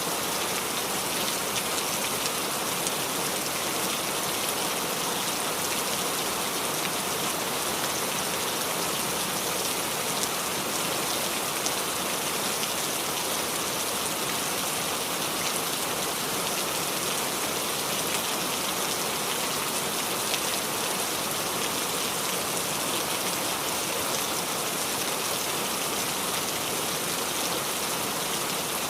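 Steady rain falling and dripping on tree leaves, a dense even patter of drops.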